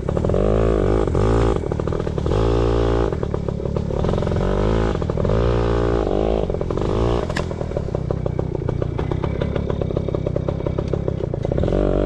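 Yamaha PW80 pit bike's small two-stroke single-cylinder engine revving up and down over and over as it is ridden, its pitch rising and falling every second or two. A single sharp click about seven seconds in.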